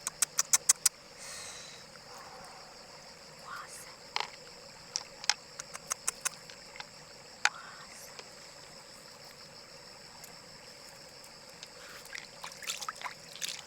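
Sharp clicks and taps: a quick run of about six in the first second, then scattered single ones, with a cluster near the end. Behind them runs a steady high-pitched insect buzz.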